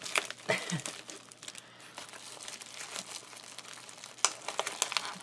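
Crinkling and rustling of a folding car sunshade and tape strips being handled, with sharper crackles about half a second in and again about four seconds in.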